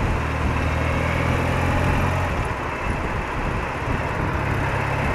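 BMW R80RT's air-cooled 800 cc boxer twin running under way, with a steady low engine note under rushing wind and road noise. The engine note eases off for a couple of seconds in the middle and comes back up near the end.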